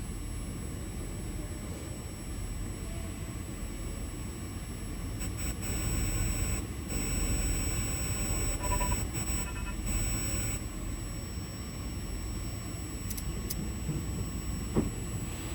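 Semi truck engine idling with a steady low rumble while pressure-washer spray hisses against the truck for about five seconds in the middle, in a few spurts with short breaks. A single sharp knock near the end.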